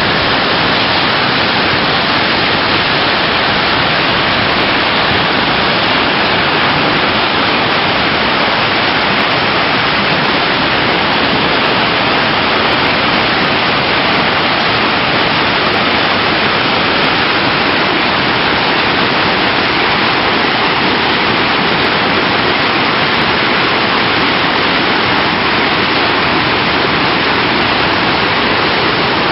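Waterfall on a canal: water pouring over the drop in a loud, steady rush.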